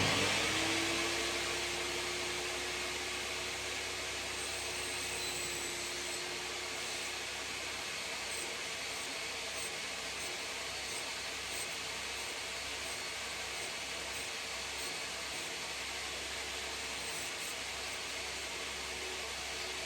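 An electric motor that starts, spins up within about a second, and then runs at a steady speed with a constant hum and a hiss of moving air.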